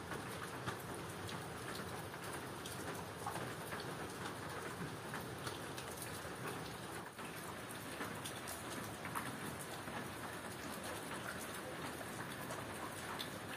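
Steady rain falling on surfaces: an even hiss of drops with many small, sharp ticks scattered through it.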